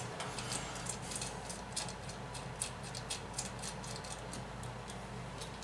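Faint light metallic clicks and ticks, a few a second, from a steel bolt and washers being handled and threaded into a freshly tapped hole on a Tecumseh H60 small engine, over a low steady hum.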